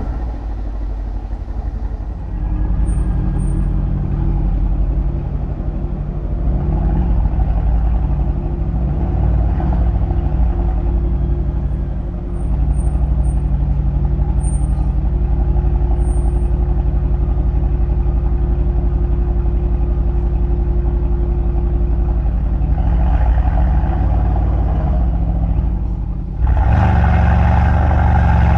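Mercedes-AMG C63's twin-turbo M177 V8 engine and exhaust giving a steady low drone while driving, with the pitch easing up and down a few times. Near the end it gets suddenly louder and fuller as the car accelerates.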